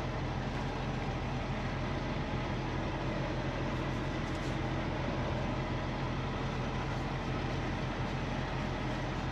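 Peterbilt 389 semi truck's diesel engine idling with a low, steady hum.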